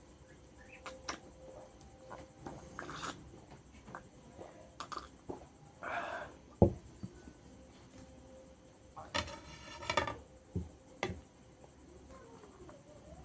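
Sounds of a meal of rice and tilapia fish curry being handled and eaten: scattered small clicks and soft squishes, with a sharp knock about six and a half seconds in, the loudest sound.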